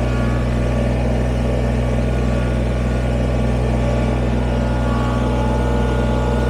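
Kubota BX23S sub-compact tractor's three-cylinder diesel engine running at a steady, unchanging speed as the tractor drives along in low range.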